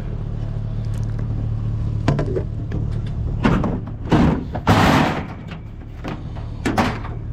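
Thumps, clunks and a longer scrape of scrap being loaded into a vehicle, with the vehicle's engine idling steadily underneath. The loudest knocks come in the middle, with one more near the end.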